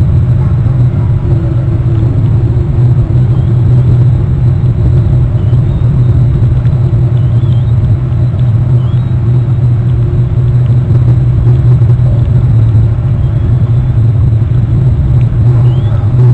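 Steady loud low rumble on the nest-cam microphone, with a few faint, short high chirps from eagles at the nest.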